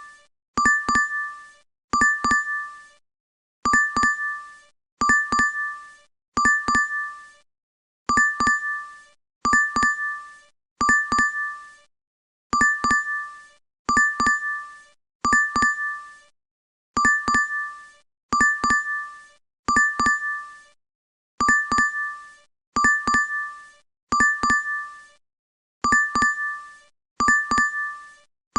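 DoorDash app notification chime repeating in a loop: a quick, bright double ding that rings out and fades. It sounds again about every second and a half, with a slightly longer pause now and then.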